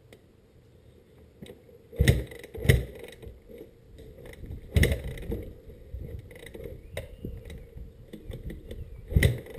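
Several heavy knocks and mechanical clattering as a dirt bike is handled and moved by hand, its engine not running.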